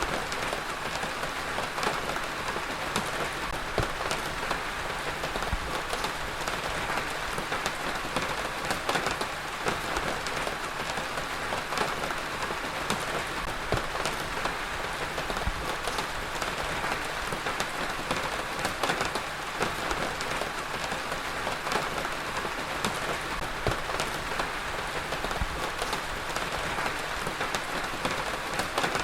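Steady heavy rain falling on a surface, a dense even hiss scattered with individual drop hits.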